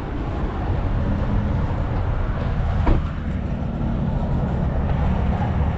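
Steady low rumble of motor traffic in the street, with a single short click about three seconds in.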